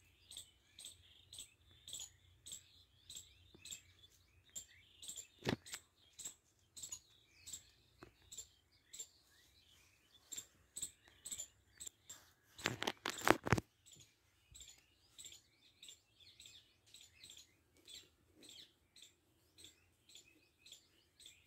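Short high chirps repeated steadily, about three a second, from a small bird or animal. A single sharp click about five seconds in, and a brief cluster of louder clicks just past the middle.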